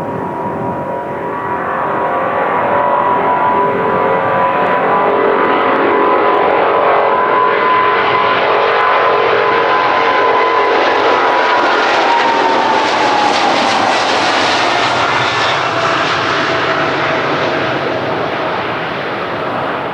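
Boeing 777's General Electric GE90 turbofans at high power as the jet passes by. A steady roar swells through the middle, and the engines' whine glides down in pitch as the aircraft goes past.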